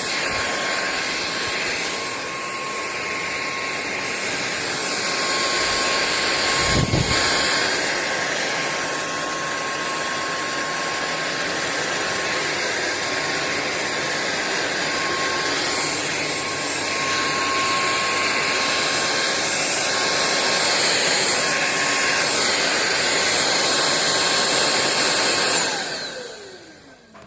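Sulean X8 cordless stick vacuum running steadily with a high whine over its rushing airflow, with a dull bump about seven seconds in. Near the end it is switched off and the motor winds down with a falling whine.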